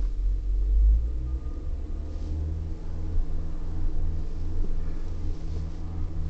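2008 Toyota Prius's engine running, heard inside the cabin as a low, steady rumble with a slight pulsing and a faint hum.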